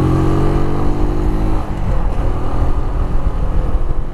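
Keeway Superlight 125 motorcycle engine pulling away and revving up, its pitch rising gently, then dropping at a gear change about a second and a half in. After that the engine runs on under a low rumble.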